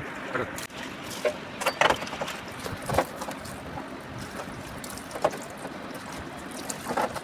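Irregular knocks and splashes over a steady hiss, as the cylinder bores of a Tata 1613's Cummins engine are washed out.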